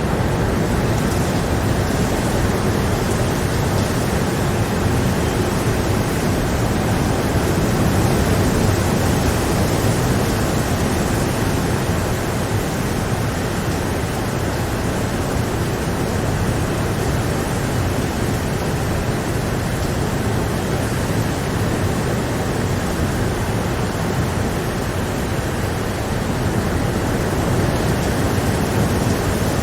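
Steady rain, an even wash of noise without breaks, single drop hits or thunder.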